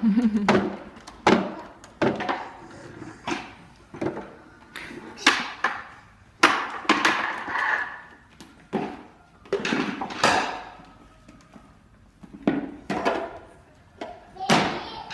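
Irregular knocks and thuds, about a dozen, each sudden and dying away quickly, with snatches of voice in between.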